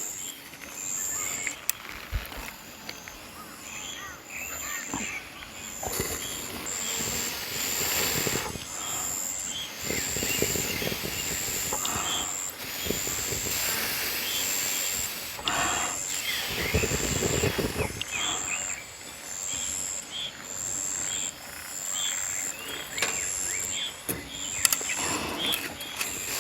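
Field insects chirping steadily in a high pulsing chorus, about once a second, while a fire of wet firewood is being coaxed alight. Several louder rushes of breathy noise, each a second or two long, come and go over it.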